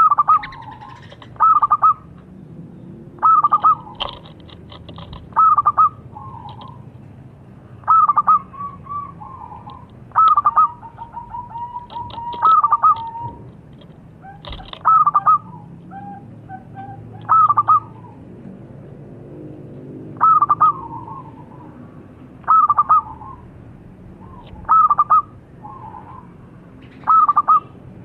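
Zebra dove (local perkutut) cooing: a short phrase of clipped cooing notes, repeated about every two seconds, some phrases trailing off in a softer trilled coo.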